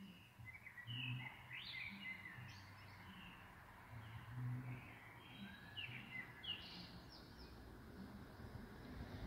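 Birds chirping and calling, many short notes sweeping quickly up and down in pitch, over a faint low hum.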